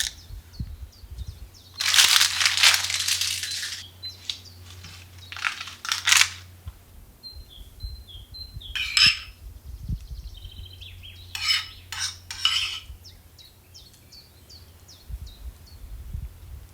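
Dishes and kitchen utensils clinking and scraping in several short bouts, the longest a few seconds in. Between them, small birds chirp, with short, quick, falling notes.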